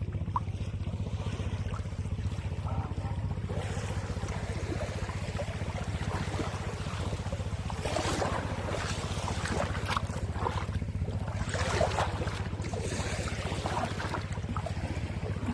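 Boat engine running steadily at a constant speed, with water splashing and wind noise over it.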